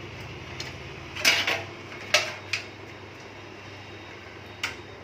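Sharp clicks and knocks of SATA cable connectors being handled and pushed home inside a PC case: a quick cluster about a second and a half in, two more single clicks shortly after, and one near the end, over a steady low hum.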